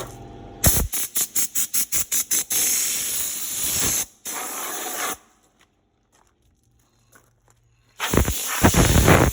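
Compressed-air blow gun hissing in a quick string of about ten short blasts, then two longer blasts. After about three seconds of quiet, another long blast comes near the end.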